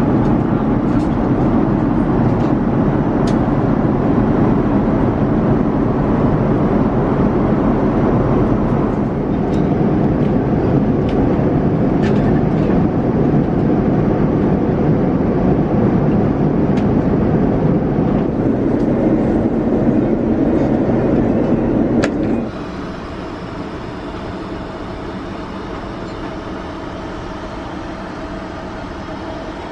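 Steady in-flight cabin noise of a Boeing 787-9: a dense rumble and rush of air with a few faint clicks. About 22 seconds in it drops suddenly to a quieter, steadier hum.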